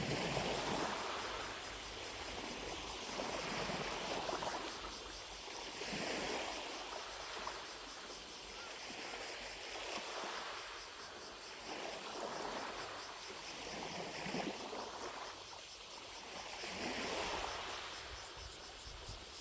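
Small lake waves lapping on the shore, coming in as soft washes every two to three seconds, with cicadas buzzing faintly in the distance.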